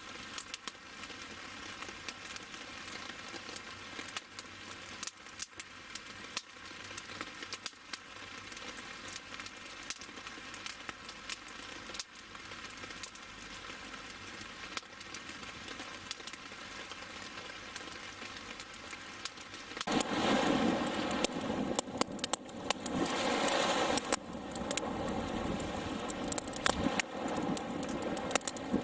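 Wood fire crackling and popping with many sharp snaps. About two-thirds of the way through, a louder rushing noise joins in and continues.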